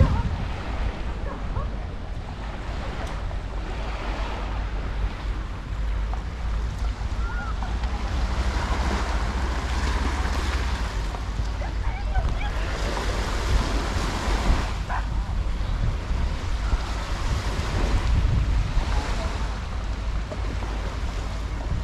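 Sea waves washing onto a beach, the noise rising and falling in strength, with wind rumbling on the microphone.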